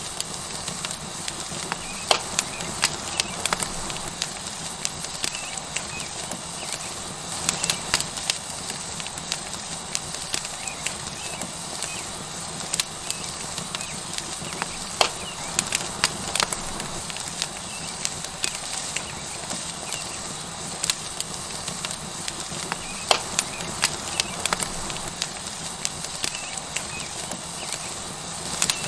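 Tomahawk steak sizzling on a hot rock over a wood fire: a steady hiss with frequent sharp pops and crackles from the fire.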